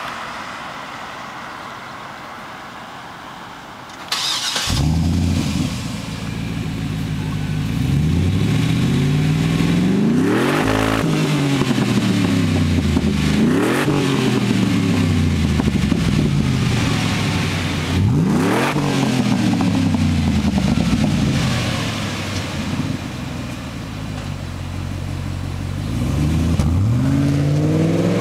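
Chevrolet Trailblazer SS V8 with a dual Borla exhaust starting about four seconds in, then idling and being revved several times, each rev rising and falling back slowly to idle.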